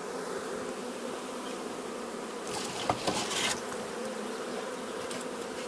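Large honey bee swarm buzzing in a steady drone. About halfway through, a brief rustle with a couple of sharp clicks.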